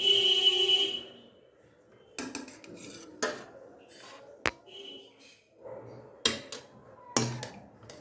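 Metal kitchen utensils and cookware clanking. It opens with a loud clang that rings for about a second, followed by about five separate knocks and clinks.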